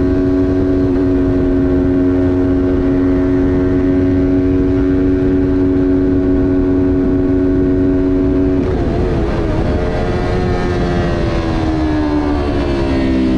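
Kawasaki Ninja 400's parallel-twin engine held at high revs at a steady pitch, then about two-thirds of the way in the note breaks up and the revs fall steadily as the bike slows.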